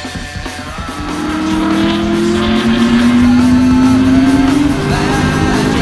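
A car engine accelerating, its pitch rising steadily for about four seconds before dropping at a gear change, with music playing over it.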